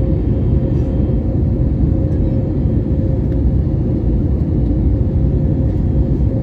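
Steady low rumble of a Boeing airliner heard from inside the passenger cabin, with a constant hum running through it.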